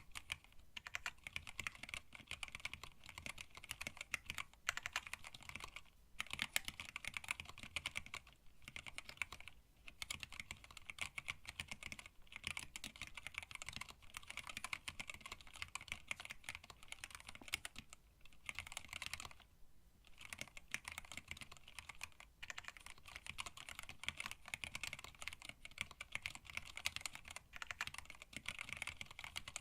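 Continuous typing on a hand-wired split mechanical keyboard with Tealios linear switches, blank PBT keycaps and an acrylic case: a dense run of keystroke clicks, broken by short pauses now and then, the longest about two-thirds of the way in.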